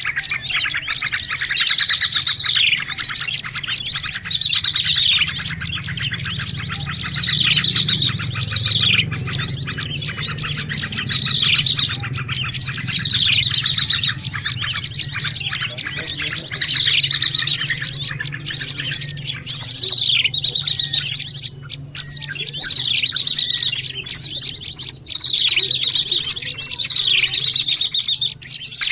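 Dense, continuous chatter of small songbirds: rapid high trills and repeated falling chirps, loud and unbroken, as played for a bird-trapping lure call. A low steady hum lies underneath.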